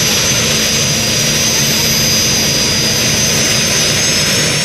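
Modified pulling tractor's engine running steadily at full power under load during a pull, with a high whine over the engine's drone.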